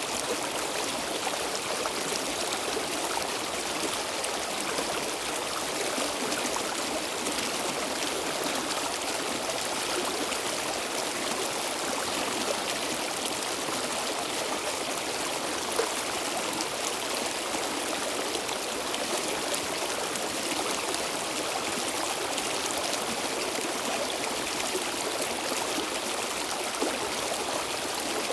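Stream water flowing steadily over rocks, a continuous rushing with small splashes and trickles.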